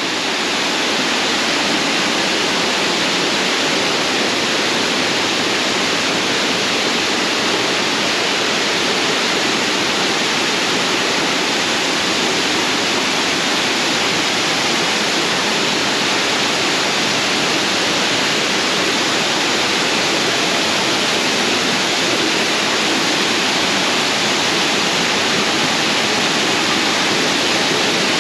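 A waterfall's cascading water making a steady, loud rush that does not change.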